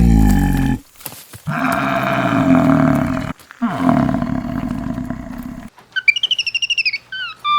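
A large animal gives three deep bellowing calls: a short one, then two long ones of about two seconds each. About six seconds in, a bird starts a high, trilling song.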